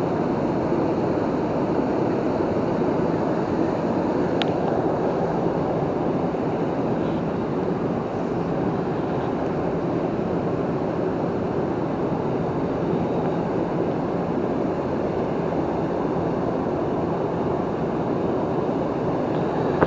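Steady rushing of a waterfall and river water, an even noise without let-up.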